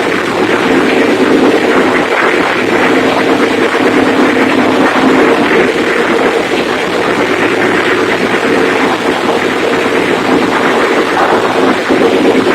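Diesel generator engine converted to spark ignition, running steadily on wood gas. It makes a loud, even engine note with rapid firing pulses.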